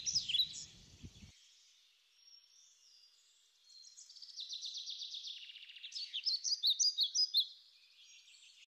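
Small birds singing: a run of repeated high chirps that fades within the first second or so. After a short lull, a buzzy trill and another series of sharp chirps follow, ending abruptly just before the end.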